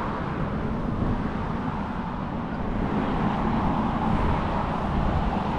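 Steady outdoor background noise with wind rumbling on the microphone and a faint steady low hum; no distinct events.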